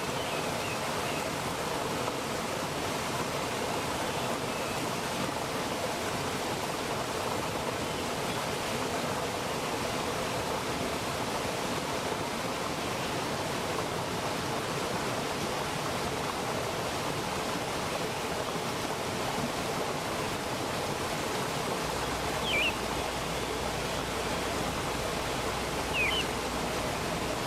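Mountain valley stream rushing steadily over rocks. A bird gives two short chirps near the end, a few seconds apart.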